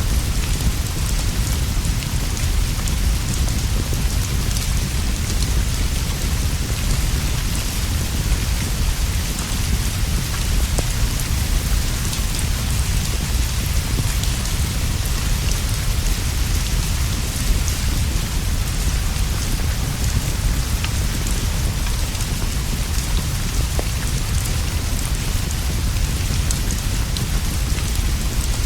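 Steady rainfall with a deep, constant low rumble beneath it and scattered faint ticks throughout.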